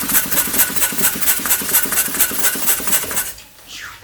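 Balloon pump inflating a twisting balloon: a fast, even, pulsing whoosh of air that stops suddenly a little after three seconds in.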